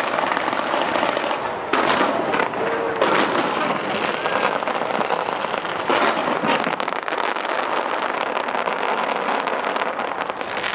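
Fireworks bursting without a break, a dense crackle with sharp bangs standing out about two, three and six seconds in.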